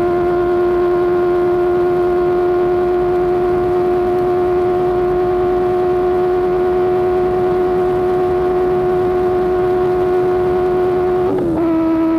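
Motorcycle engine running through an AR GP1R exhaust at steady high revs under way, a loud even drone. About 11 seconds in the note breaks briefly and comes back slightly lower, as with a quick upshift.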